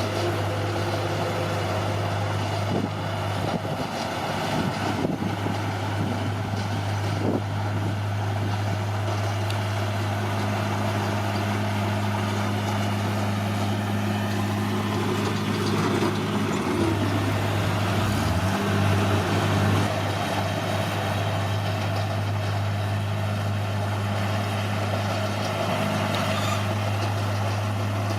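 Bulldozer diesel engine running steadily with a deep drone, with a few knocks in the first few seconds. Near the middle, the engine pitch sags briefly and then recovers.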